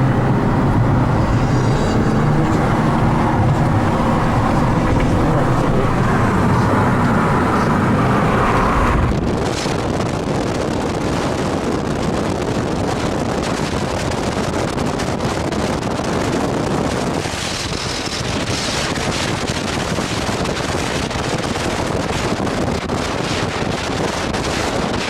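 Car engine running hard under acceleration for the first nine seconds or so, then a steady rush of wind noise over the microphone at high speed.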